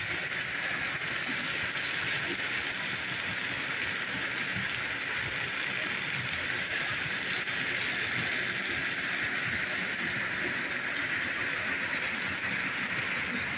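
Rain falling steadily, an even hiss of drops that holds without a break.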